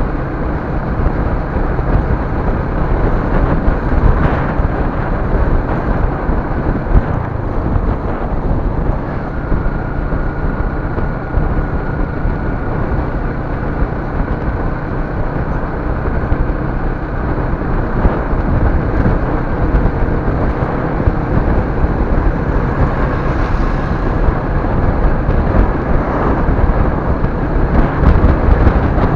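Steady road and engine rumble of a moving vehicle, picked up by a dashcam's built-in microphone, with a faint thin whine running for several seconds from about nine seconds in.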